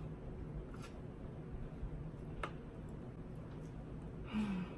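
Close-up eating sounds: faint chewing and mouth clicks of someone eating chicken wings. A short, low hum with falling pitch comes near the end.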